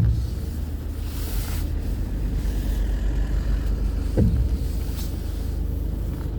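Steady low rumble of a vehicle on the move: engine and road noise while driving.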